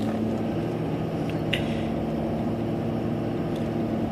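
Car driving on the road, heard from inside the cabin: a steady engine hum with road rumble. A faint short click comes about a second and a half in.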